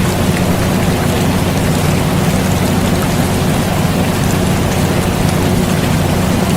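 Steady rain hiss over the constant low hum of an air conditioner, unchanging throughout.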